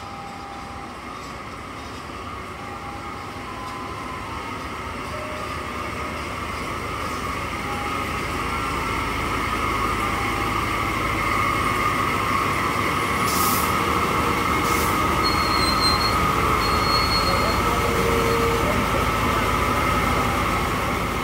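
Passenger train on the move, its rolling noise building steadily louder over about ten seconds and then holding. A steady high whine runs over it, and two short hisses come about two-thirds of the way through.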